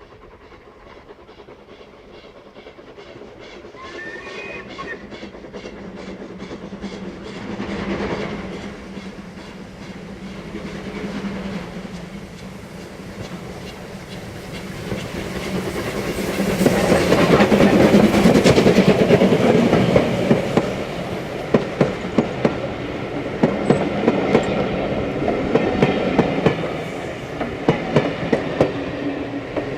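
Steam locomotive approaching and passing at speed with a rapid beat of exhaust, loudest about two-thirds of the way through, then its train of carriages clattering over the rail joints in quick clicks.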